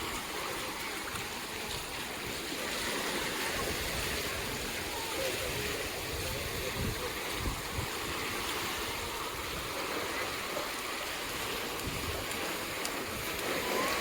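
Steady wash of sea surf on a sandy beach, with gusts of low rumble from wind on the microphone.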